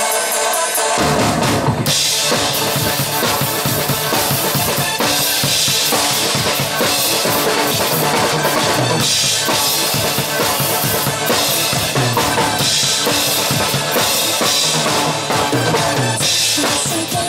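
Drum kit played along to a recorded Mandopop backing track, with steady kick drum, snare and cymbals. The drums come in hard about a second in.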